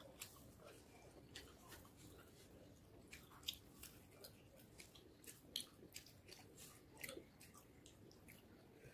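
Faint eating sounds: chewing with soft, irregular wet clicks of the mouth and of fingers mixing rice and chicken curry on a plate, with a couple of sharper clicks about three and a half and five and a half seconds in.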